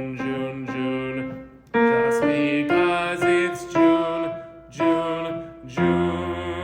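Piano playing a series of separate chords, ending on a long held chord about six seconds in.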